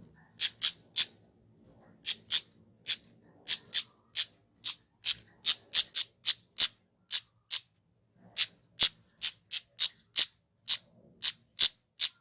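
Kemade flowerpecker calling: a rapid run of very short, sharp, high-pitched notes, about two to three a second, with a brief pause partway through.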